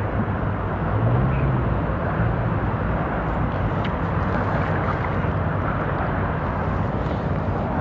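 Steady low engine drone under a constant wash of outdoor noise, with no distinct events.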